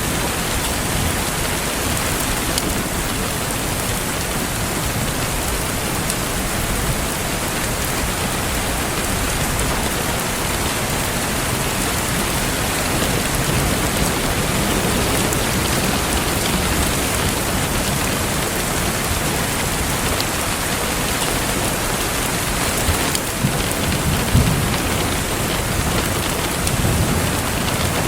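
Steady rain pattering down, with the soft crackle of a wood fire in a fireplace beneath it. A brief low rumble near the end.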